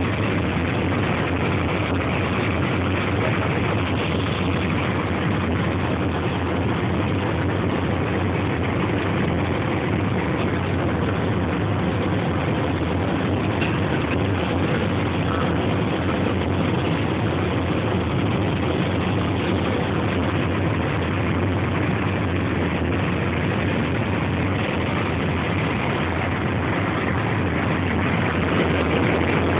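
Steady drone of a jet airliner in flight, heard inside the passenger cabin: even engine and airflow noise with no change in pitch or level.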